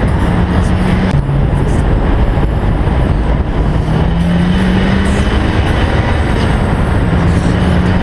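Big-turbo Volkswagen Golf GTI Mk5 driving, with dense engine, exhaust and road noise and an engine note that shifts in pitch.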